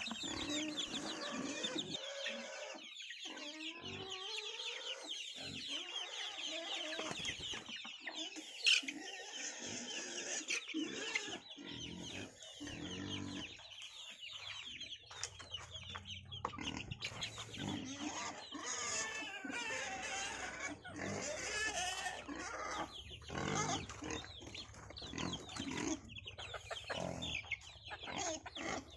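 A flock of chickens clucking and cheeping continuously while being fed, with one brief loud, sharp call about nine seconds in.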